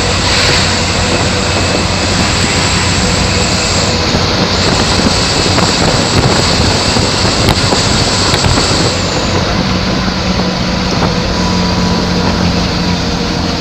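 Mitsubishi Canter light truck driving at high speed: a steady, loud mix of engine, tyre and wind noise, with a low engine hum that gains a second, higher hum line about ten seconds in.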